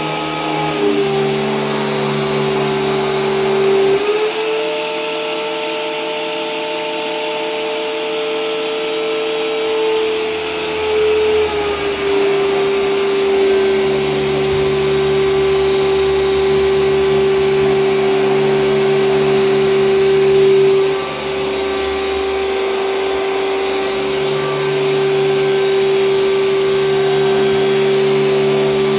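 An electric motor of an air-conditioner cleaning machine runs steadily with a whine. The whine steps up in pitch about four seconds in and drops back a little before halfway.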